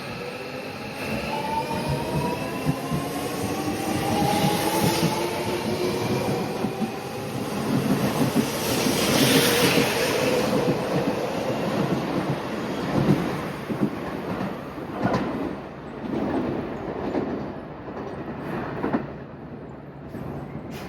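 Electric local train pulling out: the traction motors' whine rises in pitch as it gathers speed, then the wheels run on the rails with a burst of hiss and a series of clacks over the rail joints, fading as it moves away.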